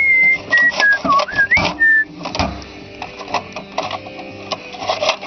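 A person whistling a short tune of gliding notes, which stops about two seconds in, over irregular clicks and knocks.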